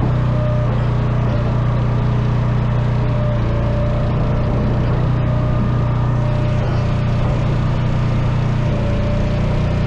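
Engine running steadily at a constant speed, its tone changing slightly about six seconds in.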